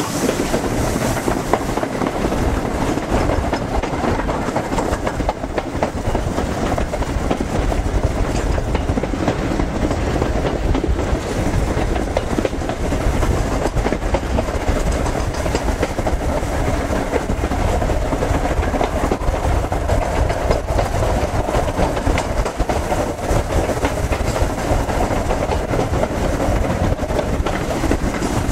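Steam-hauled passenger train running at speed, heard from a carriage window just behind the locomotive: a steady rumble of the running train with the clickety-clack of the carriage wheels over the rail joints.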